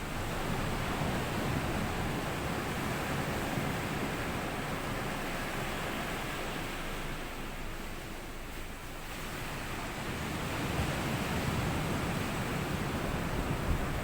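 Small sea waves washing up a sandy beach and draining back, a continuous wash of surf that swells, eases about eight seconds in, and builds again.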